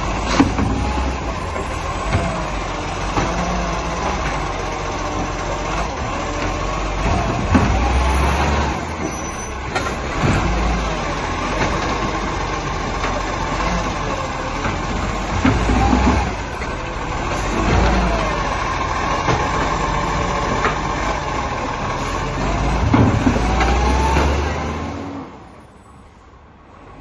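Garbage truck engine running, surging up every few seconds, with a steady whine above it; the sound falls away sharply near the end.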